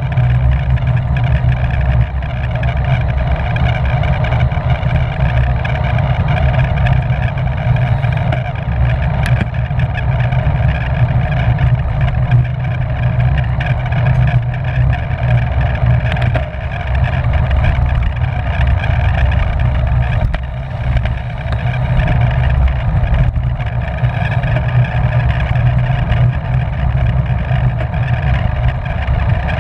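Wind rushing over the microphone of a bicycle-mounted camera at race speed, a continuous low rumble with a steady hum above it.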